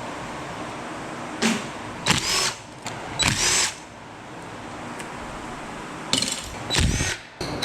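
Power drill run in several short bursts, its motor whine rising and falling with each pull of the trigger, as fasteners are backed out to strip an aluminum piece for scrap.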